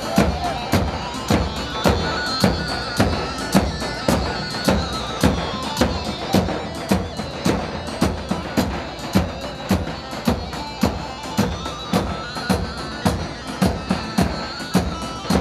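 Instrumental halay dance music from a live band: a steady, heavy drum beat about twice a second under a reedy, zurna-like melody line.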